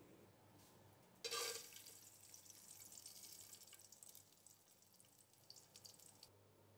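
Raisins going into hot oil and ghee with a sudden splash about a second in, then a light crackling sizzle that fades and cuts off abruptly near the end.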